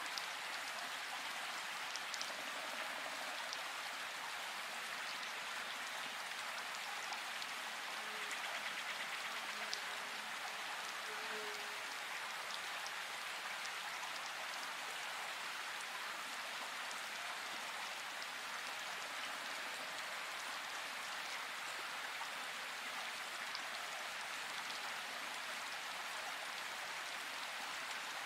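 Steady rain: an even hiss with a few scattered drop-like ticks.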